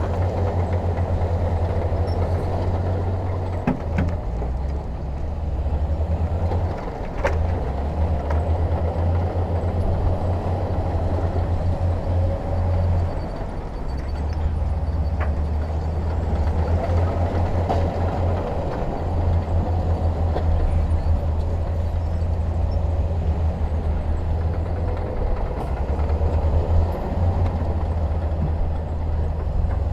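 Heavy diesel earthmoving machinery running steadily, a deep low engine drone that rises and eases a little every few seconds, with a few faint knocks.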